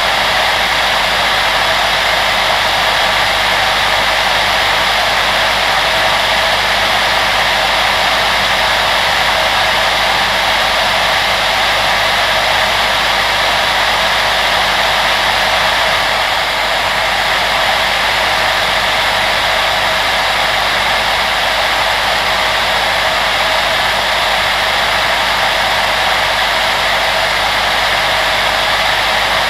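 Steady whoosh of an electric appliance fan blowing air, an even hiss with a faint motor hum underneath. It dips slightly in level about sixteen seconds in.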